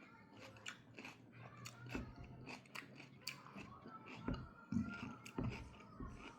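A person chewing and crunching crisp food close to the microphone, with sharp crunches a few times a second, loudest in the second half.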